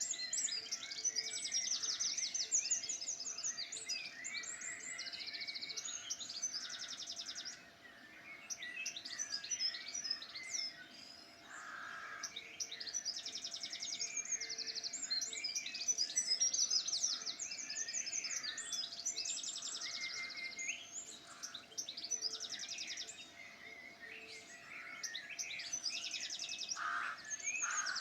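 Several songbirds singing at once: rapid trills and chirps overlapping continuously, with a faint steady hum underneath.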